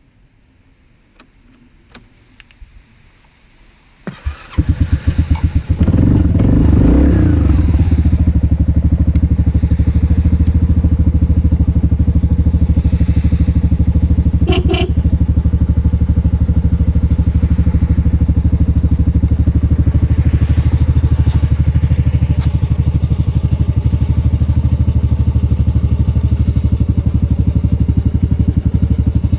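A few faint clicks, then a Yamaha Majesty 250 scooter's single-cylinder four-stroke engine starts about four seconds in, revs up and back down briefly, and settles into a steady idle. A short beep comes about halfway through.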